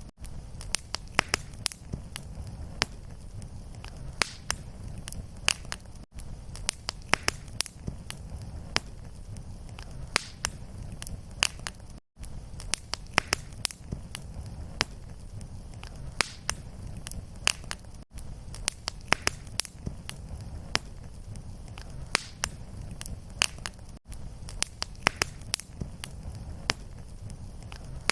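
Fireplace fire crackling: dense sharp pops and snaps over a steady low rumble of flame. Brief gaps recur about every six seconds.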